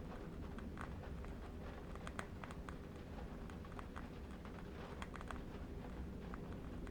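Faint, irregular crackling of a burning candle wick over a steady, soft, low wind rumble.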